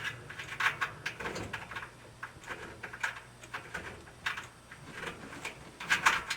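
Irregular knocks, clicks and rattles of a dryer drum baffle being handled and fitted against the metal drum, some louder than others.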